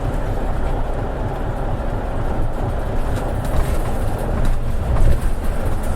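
Isuzu KL-LV280N1 city bus heard from inside the cabin while under way: a steady low rumble of engine and road noise, with faint rattles and knocks from the body.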